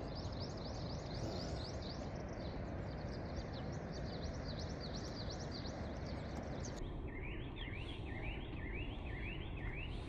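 A bird calling in a fast series of short rising chirps, about three a second, over a steady rushing background. About seven seconds in the sound cuts to a lower-pitched series of the same kind of chirps.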